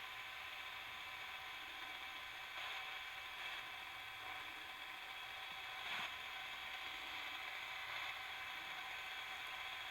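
Radio spirit box sweeping the FM band: a steady choppy static hiss with a few brief blips of signal as it skips between stations.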